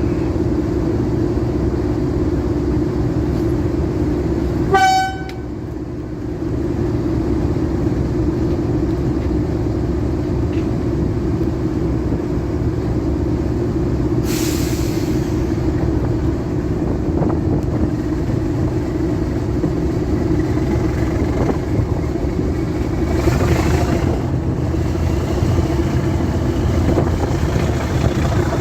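Diesel locomotive engine running steadily, with a short horn toot about five seconds in. Two brief bursts of hiss follow later.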